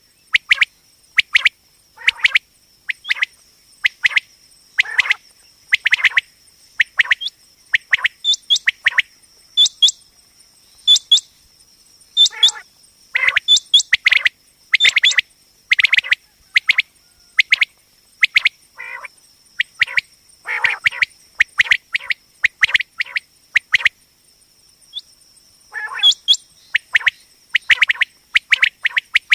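Common quail calling: short, sharp notes repeated in quick groups, with brief pauses between the groups.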